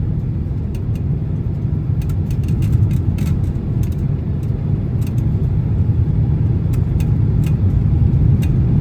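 Steady low rumble of a Boeing 767-300's cabin in flight, engine and airflow noise, with scattered light rattling clicks from the cabin as the airliner flies through turbulence.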